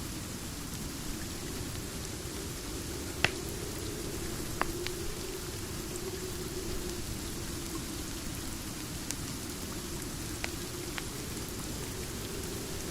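Steady rain with the scattered pops of a wood fire crackling: about half a dozen sharp cracks, the loudest about three seconds in.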